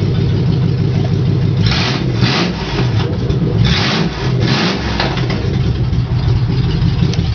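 Car engine idling steadily just after it has been started. Brief rushes of louder noise come about two seconds and about four seconds in.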